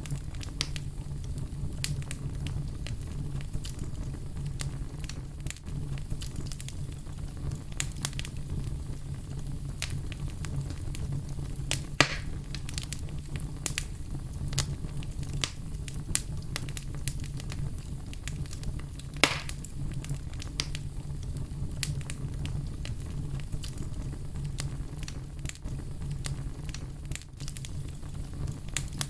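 Fire crackling over a steady low rumble, with many sharp little pops and two louder snaps, about twelve and nineteen seconds in.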